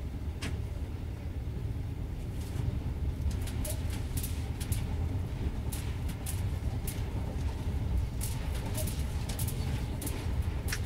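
Inside the cabin of a late-1970s JNR Yokosuka Line electric train on the move: a steady low rumble of wheels on rail. From about three seconds in, sharp high ticks and clicks come thick and irregular over the rumble.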